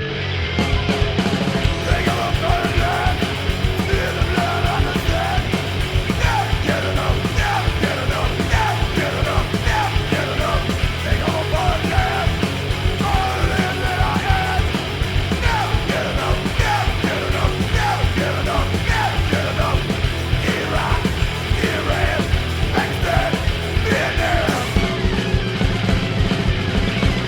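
Fast punk rock: shouted vocals over distorted guitar, bass and driving drums. The full band comes in loud about half a second in.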